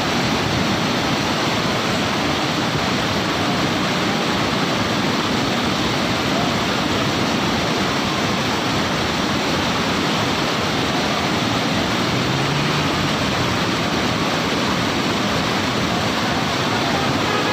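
Fast-flowing water rushing steadily, like a mountain stream or waterfall.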